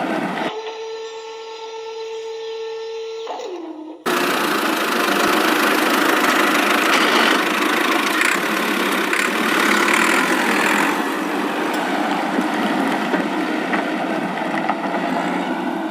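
A small motor runs with a steady whine whose pitch drops away as it slows, at about three and a half seconds. A sudden change follows, to a louder, rougher, continuous motor running noise.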